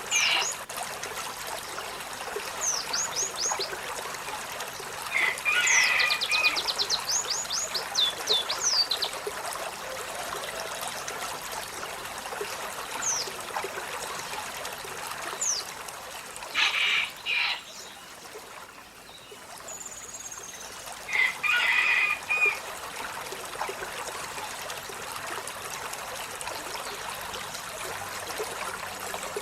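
Olive-backed sunbird calling: quick runs of high, down-slurred notes and several short, harsh chattering bursts, over a steady trickle of running water.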